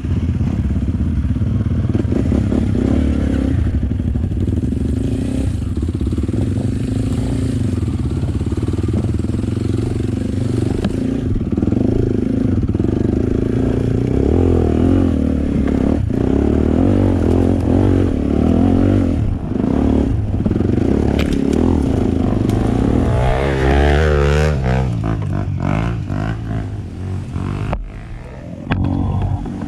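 Enduro dirt-bike engine running on a trail ride, its pitch rising and falling as the throttle opens and closes. It eases off briefly near the end.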